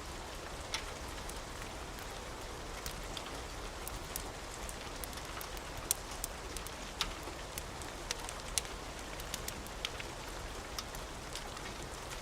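Steady rain falling, an even hiss, with many scattered sharp ticks and crackles from raindrops and a crackling wood fire.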